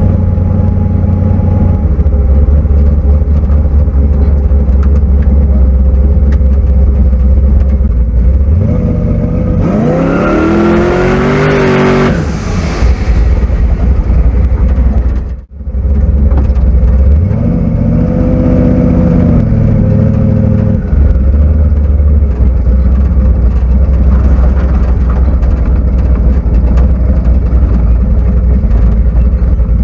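Twin-turbo big-block Chevy V8 in a hot rod, driving with a steady low drone and revving up hard twice, the first pull carrying a brief hiss. The sound cuts out for an instant between the two pulls.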